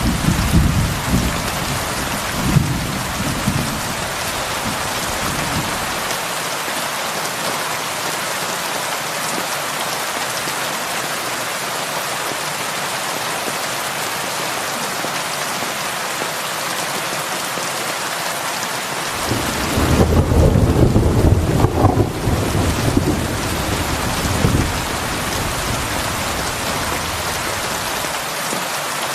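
Heavy rain falling steadily, with deep rolling thunder rumbling through the first few seconds and again for several seconds past the middle, loudest around twenty seconds in.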